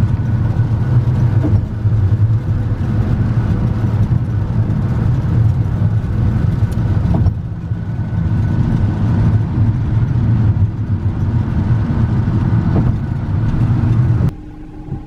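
Steady low rumble of a vehicle's engine and road noise heard from inside the moving vehicle, with a hiss above it. The sound drops away abruptly near the end.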